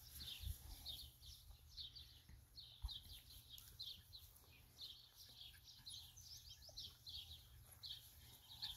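Faint chirping of small birds: quick, high notes that slide downward, repeated several times a second, over a low rumble.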